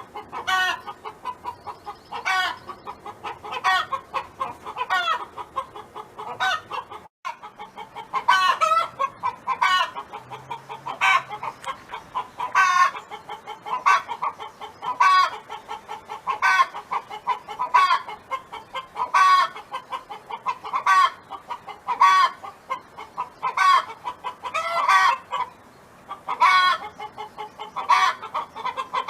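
Domestic hen calling over and over in a steady run of loud clucks, roughly one a second, each with a rising squawk.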